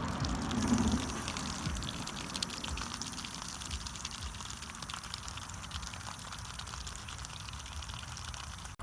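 Water running from an outdoor spigot, pouring and spattering onto the ground with many small drips. There is a low rumble in the first second.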